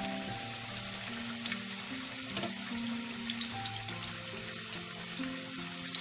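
Sweet potato sticks deep-frying in hot oil in a pan: a steady sizzle dotted with small crackles, under soft background music of slow held notes.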